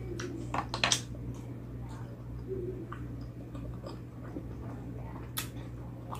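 A person chewing food, with a few sharp clicks about a second in and one more near the end, over a steady low hum.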